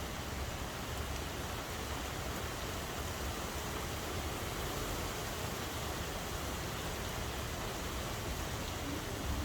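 Steady rainfall: an even hiss of rain with no break or change.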